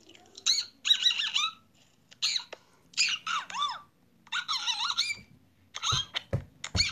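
Bird squawking and chirping in quick clusters of high, wavering calls, played back from a phone voice message, with a few dull knocks about six seconds in.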